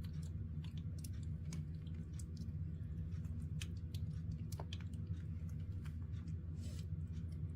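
Baby monkey chewing and smacking on soft papaya, irregular wet clicks a few times a second, over a steady low hum.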